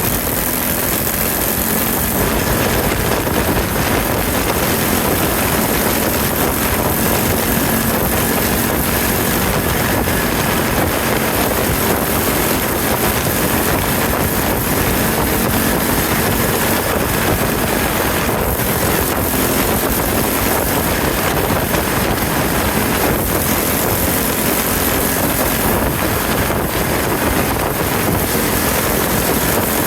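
Yamaha TW200 air-cooled single-cylinder motorcycle engine running steadily under way, with a constant rush of wind over the microphone.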